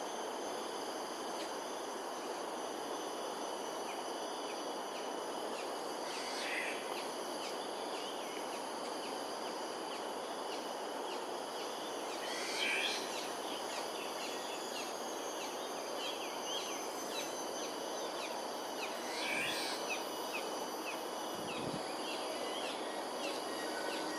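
A bird calls three times, about every six seconds, with a few softer chirps between, over steady insect trilling and a constant background hum.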